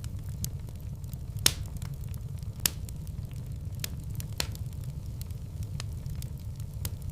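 Wood fire in a fireplace crackling: a low, steady rumble underneath with frequent sharp pops at irregular intervals. The two loudest pops come about one and a half and two and a half seconds in.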